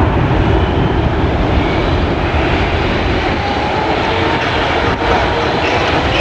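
Wide-body jet airliner's engines running loud and steady, with a faint whine slowly rising in pitch through it.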